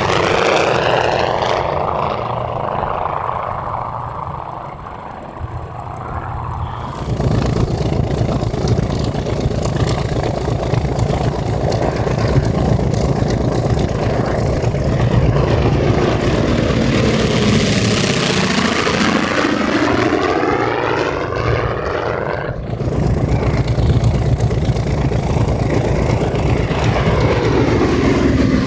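Grumman TBM Avenger's Wright R-2600 radial engine and propeller droning in low passes, the pitch rising as it approaches and falling as it goes by. The sound changes abruptly twice, about a quarter of the way in and again toward the end.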